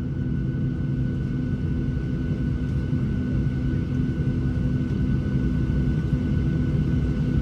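Steady low cabin rumble and hum inside a Boeing 737-700 on the ground before takeoff, with a faint steady whine above it.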